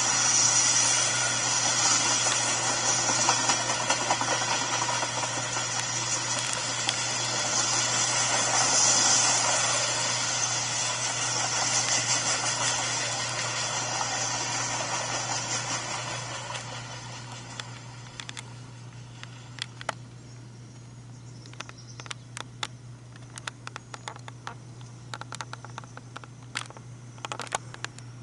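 Freight cars rolling past, a steady rushing noise of steel wheels on rail that dies away about 17 seconds in as the end of the train passes. After that only a low steady hum and scattered faint clicks remain.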